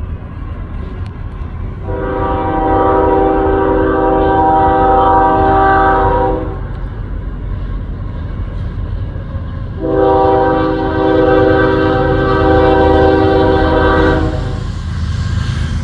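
Union Pacific locomotive air horn sounding two long blasts, each about four seconds, several tones together, over the steady rumble of the approaching freight train. The two long blasts, followed just after by a short one, form the opening of the long-long-short-long grade-crossing signal.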